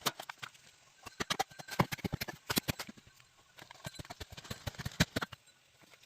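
Irregular hollow knocks and clacks of bamboo being worked, in quick flurries of strikes with short gaps between them.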